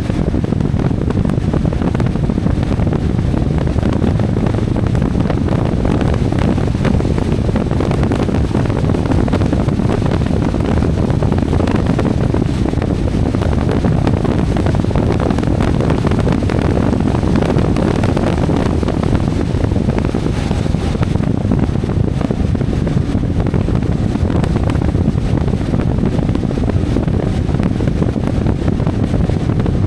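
CFMoto 450MT motorcycle's parallel-twin engine running steadily on the move, with heavy wind noise buffeting the microphone.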